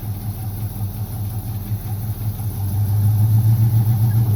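Car engine running steadily with a low, even hum that grows louder about two and a half seconds in.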